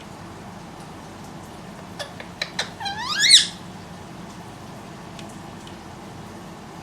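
Indian ringneck parrot giving one short, loud squawk that rises sharply in pitch, about three seconds in, just after a few sharp clicks.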